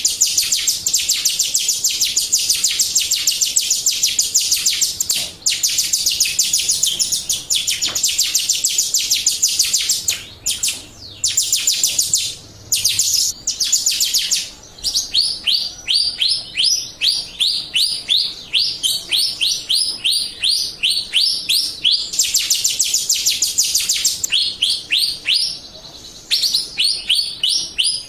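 Jalak Rio starling song used as a lure recording: a fast run of sharp, high chirps, about eight a second, broken by a few short pauses. About halfway through it changes to a slower series of downward-sweeping notes, about three a second.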